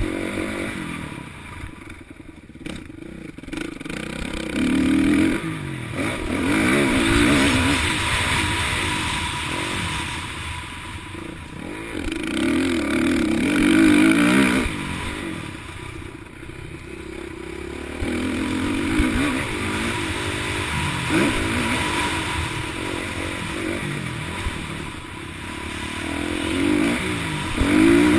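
Motocross bike engines revving hard, the pitch climbing and dropping back again and again, the sound swelling and fading every few seconds.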